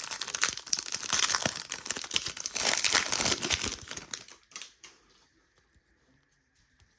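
Plastic wrapper of a trading-card pack crinkling and tearing as it is handled, dense crackling for about four seconds, then it stops, leaving only a few light clicks.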